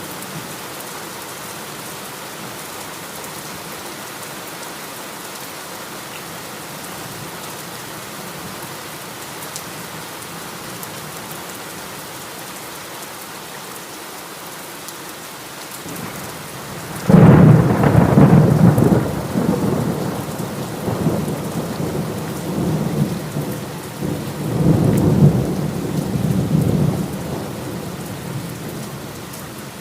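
Steady heavy rain falling. A little over halfway through, a loud thunderclap breaks in and rolls on as deep rumbling for about ten seconds, swelling once more before fading back under the rain.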